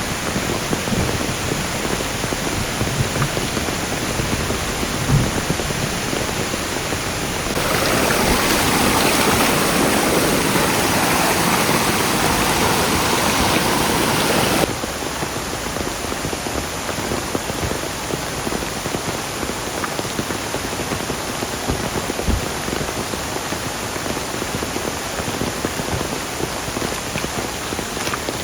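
Heavy rain falling steadily. For about seven seconds in the middle it is louder and harsher, starting and stopping abruptly.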